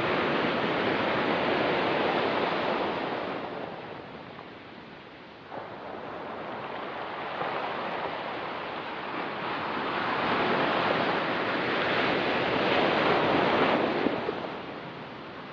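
Ocean surf washing on a rocky, pebbly shore. One wave washes in and draws back, falling away about four seconds in. A second wave then builds and breaks, ebbing again near the end.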